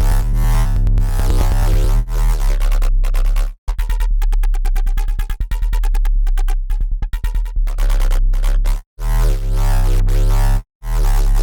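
Dirty FM synth bass riff at 140 BPM, built from Bitwig Polygrid modules, playing a looping pattern of stepped notes over a heavy sub-bass. In the middle the sound breaks into a fast stuttering chop, and it cuts out briefly a few times between phrases.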